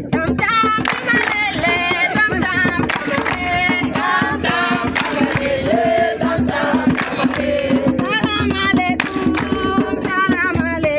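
A group of young people singing and chanting together, many voices at once, over steady rhythmic percussion.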